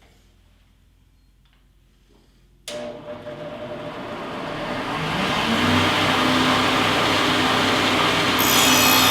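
Electric power saw switching on suddenly after a few quiet seconds and spinning up with a rising whine to a steady running tone. Near the end the blade starts cutting through a 1x3 board, adding a harsh rasping hiss.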